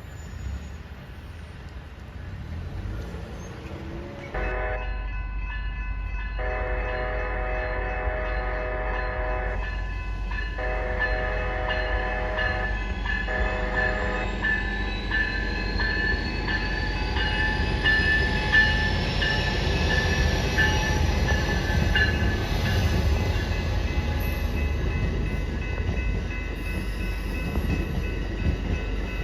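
Amtrak Cascades passenger train sounding its multi-chime horn in a sequence of blasts with short breaks, then passing with a steady low rumble of the train on the rails.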